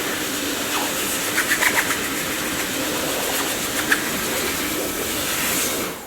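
Dyson vacuum cleaner running with a steady rushing noise, with a few brief crackles about a second and a half in and again near four seconds. Near the end it is switched off, and the motor's whine starts falling as it winds down.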